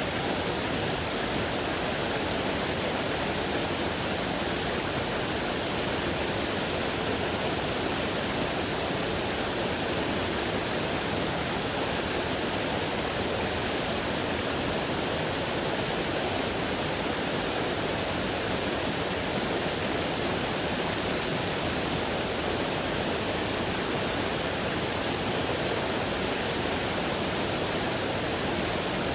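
Steady rush of a creek's flowing water, unchanging throughout.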